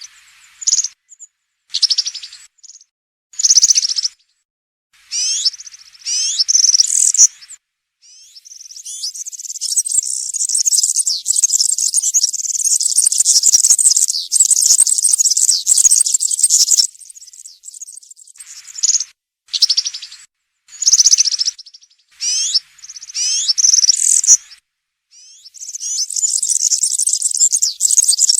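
European serin singing its high-pitched song of rapid notes. It sings in short phrases of about a second, with a long unbroken run of about eight seconds near the middle and another starting a few seconds before the end.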